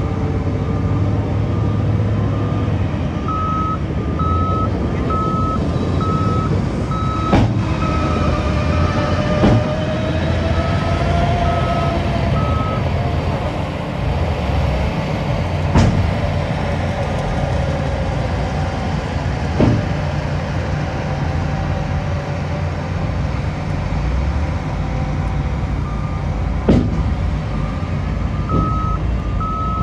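Diesel earthmoving machinery running steadily, with a reversing alarm beeping through the first half and again near the end. Several sharp clanks sound from time to time.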